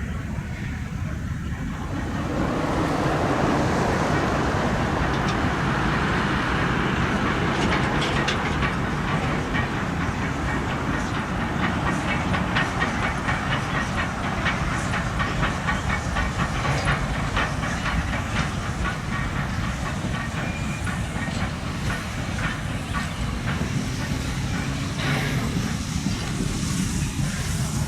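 Steam train hauled by a QR C17 class steam locomotive passing, with a rushing hiss that swells about two seconds in. Through the middle a quick run of wheel clicks over the rail joints.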